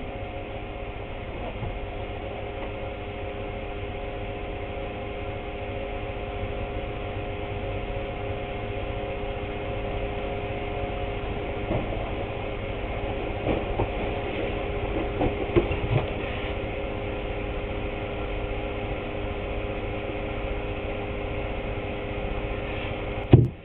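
A small electric motor hums steadily, with a few light knocks about halfway through, then shuts off with a loud click just before the end.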